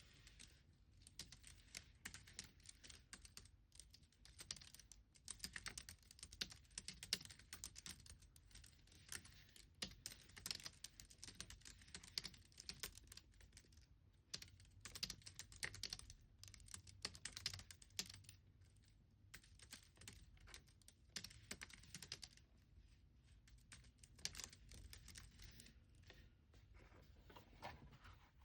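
Soft typing on a computer keyboard: quick runs of keystrokes broken by short pauses.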